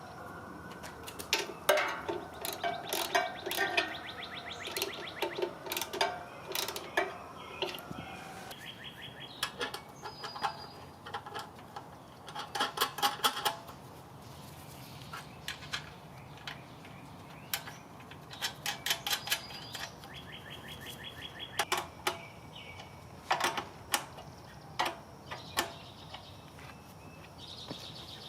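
Hand tools working on metal hardware: scattered clicks and knocks, with several bursts of rapid ratchet-wrench clicking about a second long.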